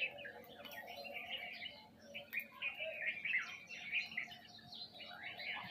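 A flock of small birds, sparrows among them, chirping together: many short, overlapping chirps with no pause.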